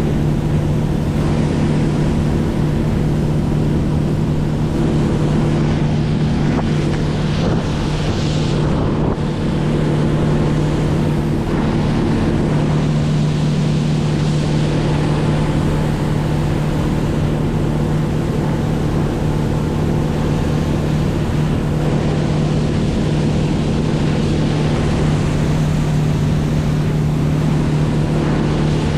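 Motorboat engine running steadily at cruise, an even drone that holds its pitch throughout.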